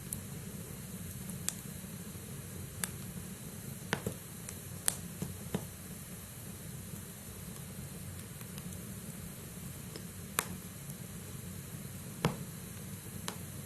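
Log fire burning in a fireplace: a steady low rustle of flame with sharp crackles and pops from the burning wood, about ten scattered through, the loudest a little past the middle and near the end.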